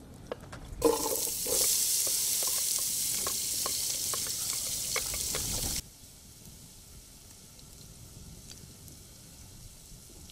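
Chopped onion tipped into hot oil in a metal pot, sizzling loudly with crackles from about a second in; the loud sizzle cuts off suddenly a little past the middle, leaving a faint steady sizzle.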